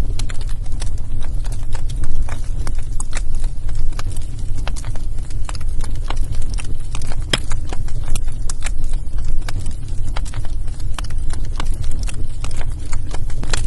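Wood fire burning in a fireplace: logs crackling and popping in quick, irregular snaps over a steady low rumble, with one sharper pop a little past the middle.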